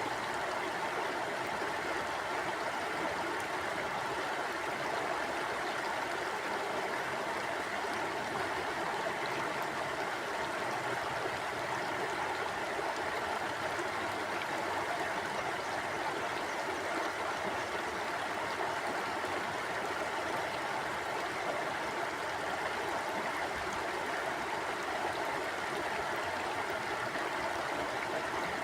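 Mountain stream flowing steadily over rocks, an even rushing and babbling of water with no breaks.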